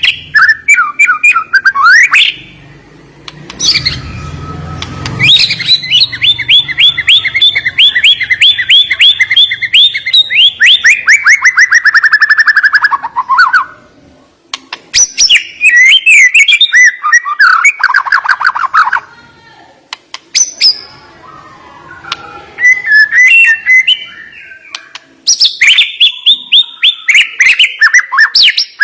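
White-rumped shama (murai batu) singing loudly in varied whistled phrases. The phrases include a long run of rapid, sharp repeated notes that slowly drop in pitch, with short pauses between phrases.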